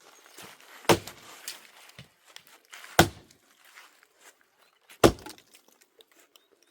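Three heavy blows struck on wood about two seconds apart, with light rustling and handling noise between them.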